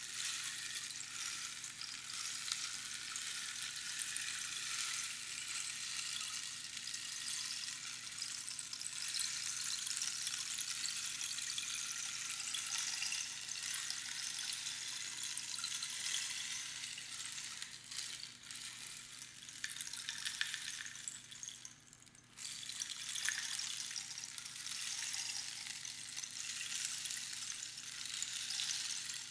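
Rainstick: small pebbles trickling down past the pins inside the tube, making a continuous, rain-like hiss of tiny pattering grains. A little past two-thirds of the way through, the flow thins almost to nothing for a moment, then picks up again.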